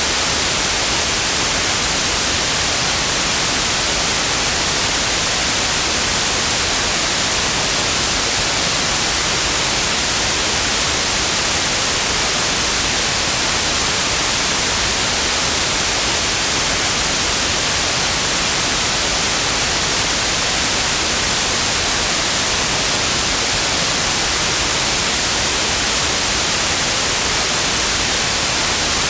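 Steady white noise: an even, unbroken hiss, loudest in the highs, with no change in level.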